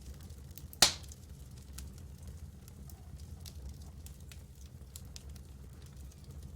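Wood campfire crackling, with scattered small snaps over a low steady rumble and one loud sharp pop a little under a second in.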